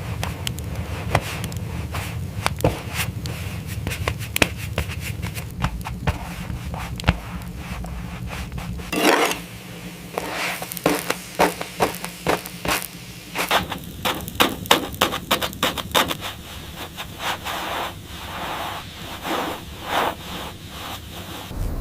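Irregular knocks, clicks and scraping, coming faster in the second half, over a steady low rumble that drops away about nine seconds in.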